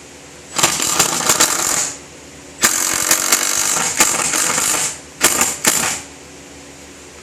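Power drill driving a screw in four runs: two longer runs, then two short bursts near the end as the screw goes home.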